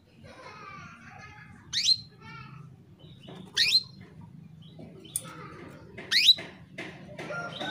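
Female canary calling: three sharp upward-sweeping call notes about two seconds apart, with soft twittering in between. These are the calls of a hen canary in breeding condition calling to males.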